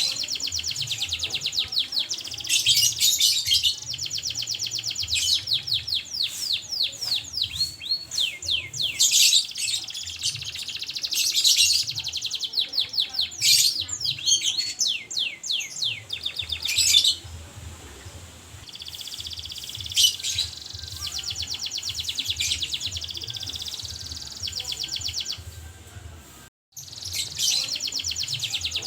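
Domestic canary singing at length in fast rolling trills and rapid runs of repeated notes, high and bright. The song breaks off abruptly for a moment near the end, then resumes.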